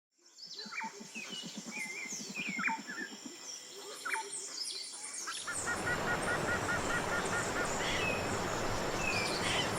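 Several birds calling and chirping over a high, steady insect-like drone, with a low, rapid pulsing call through the first half. About halfway through, a steady rushing noise swells up and stays, with a quick run of eight or so bird notes over it.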